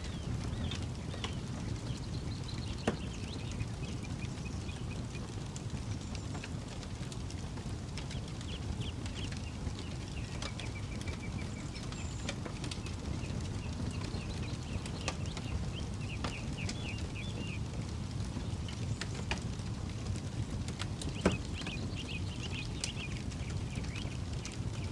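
Campfire crackling with scattered small snaps and two sharper pops, over a steady low rumble. Short chirping calls, typical of birds, repeat in the background.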